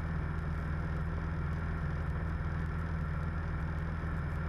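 Steady drone of a 1976 Cessna 172M's four-cylinder Lycoming engine and propeller, heard from inside the cabin while the aircraft descends.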